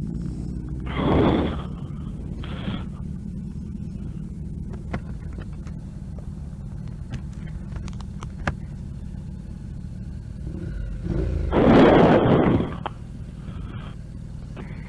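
Motorcycle running steadily at road speed, a low rumble with engine and wind noise. Two louder rushing whooshes, a short one about a second in and a longer one around twelve seconds.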